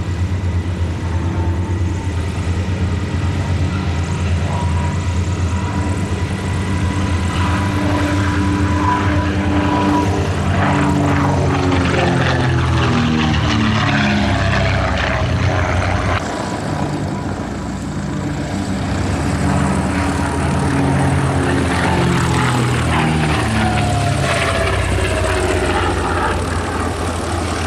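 The twin de Havilland Gipsy Six R piston engines of a DH 88 Comet racer flying past twice, the propeller note falling in pitch as it goes by each time.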